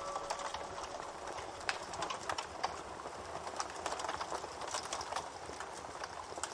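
Campfire crackling: irregular sharp snaps and pops from the burning wood over a soft steady hiss.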